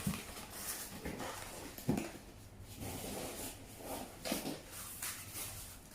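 Hands handling packaging and small accessories: rustling with a few light knocks and clicks, the sharpest about two seconds in.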